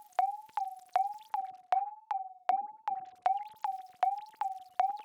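Synthesized electronic blips repeating about two and a half times a second, each a sharp click followed by a short tone that slides upward and fades: a robotic, droid-like sound effect.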